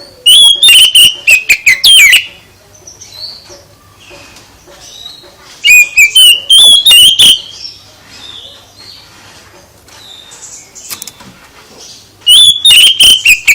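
A songbird singing in three loud bursts of rapid whistled notes, sliding glides and harsh chattering, each lasting one and a half to two seconds and separated by a few seconds of near quiet.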